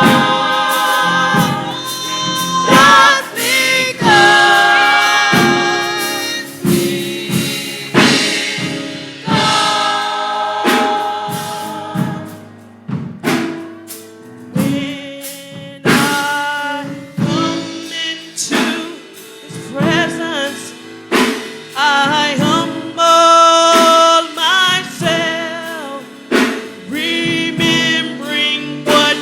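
Gospel choir singing with instrumental accompaniment and drums, held notes with vibrato.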